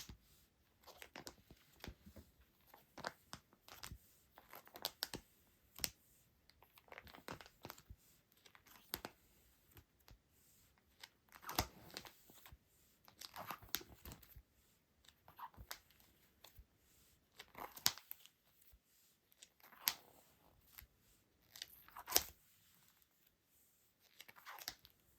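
Hands handling paper and plastic packaging: a run of short crinkles, rustles and tearing sounds with small taps, louder a few times in the second half.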